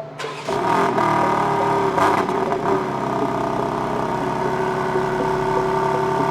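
BMW G82 M4's twin-turbo straight-six engine starting up with a flare of revs, then running at a steady idle through the exhaust.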